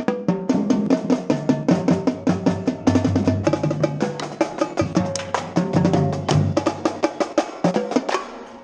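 Marching percussion ensemble playing a fast passage: rapid strokes on quints (tenor drums), with bass drums and low sustained notes from the front ensemble underneath. The strokes thin out and the sound drops away in the last half-second.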